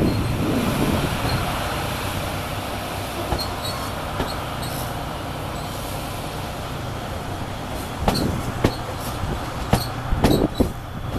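A train running past with a steady rumble and low hum that eases over the first few seconds. Then a run of sharp clicks and knocks over the last three seconds.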